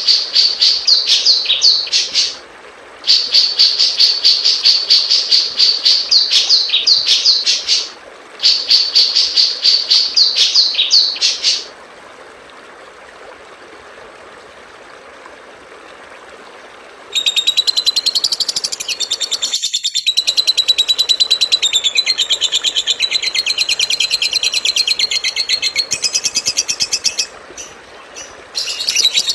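Recorded songbird song of the kind used as masteran for training songbirds: three bouts of fast, trilling high notes with short gaps. After a pause of several seconds with only a faint hiss, a different, denser high chattering song starts and runs on with one brief break.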